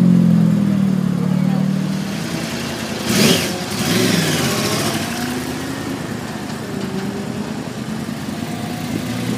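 A black hatchback's engine drones at low revs as it pulls away, then about three seconds in a brief loud burst of noise, then a Porsche 911 GT3 RS's flat-six runs at low revs as the car rolls slowly past, its pitch climbing gently in steps.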